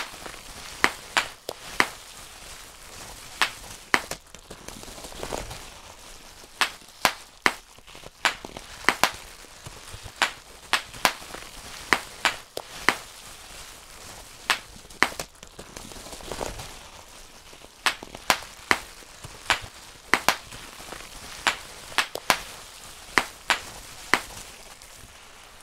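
Bubble wrap being popped by hand, one bubble at a time: sharp pops at an irregular pace of about one or two a second, with a couple of softer, longer rustles of the plastic sheet in between.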